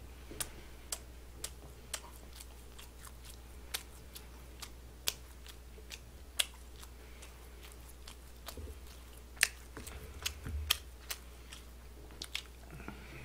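Close-miked chewing: sharp, irregular mouth clicks and smacks of someone eating boneless fried chicken gangjeong in a sweet, mildly spicy pepper batter. The clicks come thicker and louder about nine to eleven seconds in.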